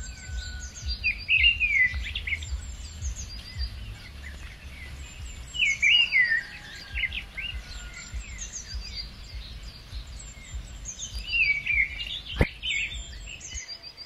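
Forest birds calling. A phrase of quick falling whistled notes comes three times, about a second in, around six seconds and near the end, over scattered higher chirps. A low rumble runs underneath, and there is a single sharp click near the end.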